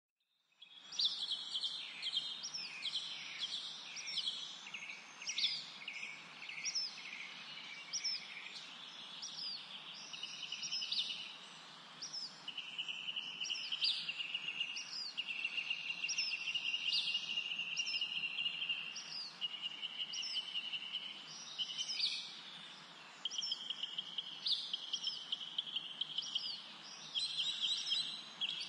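Garden songbirds singing and chirping: short high notes that fall in pitch, repeated about once a second, over longer trilled phrases, with a faint steady background hiss.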